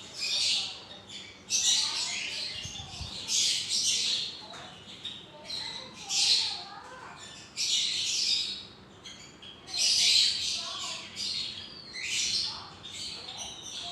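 Pet parrots squawking over and over, with harsh, scratchy screeches about once a second.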